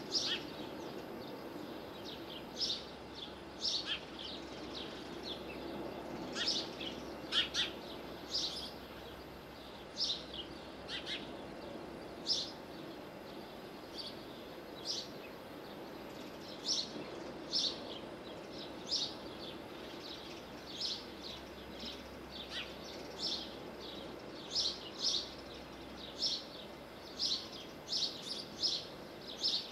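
Bird chirping: short, high chirps repeating irregularly, roughly once or twice a second, over a steady low background hum of outdoor noise.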